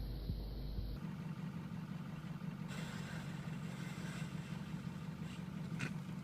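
A steady low drone like a running engine, beginning abruptly about a second in, with a short sharp click near the end.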